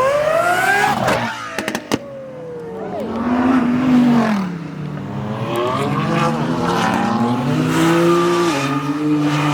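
A car engine revving hard as the car accelerates, its pitch climbing steeply in the first second, then a few sharp cracks. It revs up and down several times more and settles into a steadier high drone near the end.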